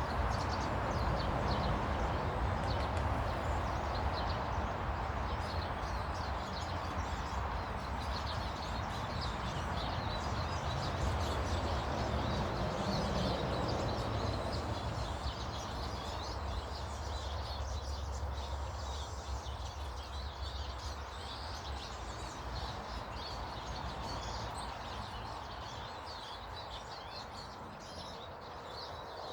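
Many small birds chirping and twittering over a steady low rumble; the rumble fades about halfway through, and the whole sound slowly grows quieter.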